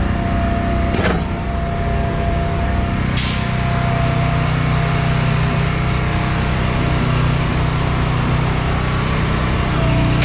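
Semi-truck diesel engine running steadily, with a sharp click about a second in and a short hiss about three seconds in.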